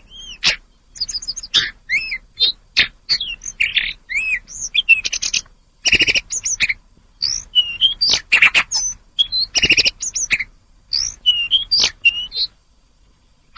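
Tledekan gunung (snowy-browed flycatcher) singing a fast, varied run of high chirps and short pitch-bending whistles, which stops about a second before the end.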